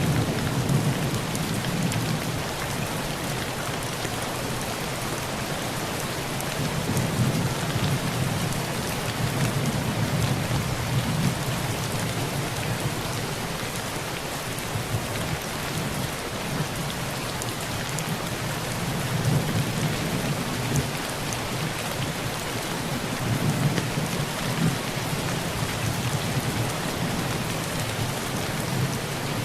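Heavy rain pouring steadily on a tin roof. Low thunder rolls in and out several times, swelling about seven to eleven seconds in and again in the last third.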